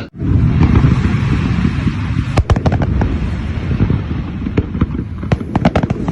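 Fireworks going off in a dense barrage: a continuous rumble of booms with sharp cracks scattered through it.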